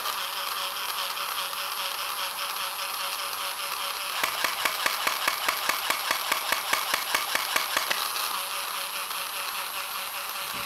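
Small electric motor of a battery-powered toy Shiba Inu whirring steadily. From about four to eight seconds in, a rapid, even clicking of about five a second runs over the whir.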